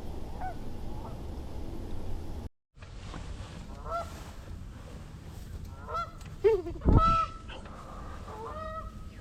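Canada geese honking, a string of short calls that grows denser and louder about two-thirds of the way through. Low wind rumble on the microphone at the start.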